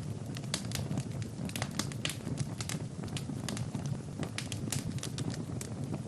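Wood fire crackling in a fireplace: frequent irregular sharp pops and snaps over a steady low rush of burning.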